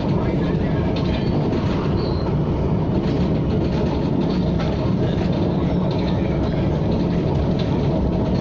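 KTM ETS electric train running along the line, a steady noise of wheels on rails with a few faint clicks.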